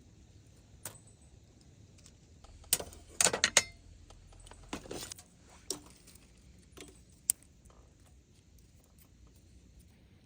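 Small hard objects being handled: a quick cluster of sharp, metallic-sounding clinks and clatters about three seconds in, then a few single knocks spaced out afterwards, over a faint steady background.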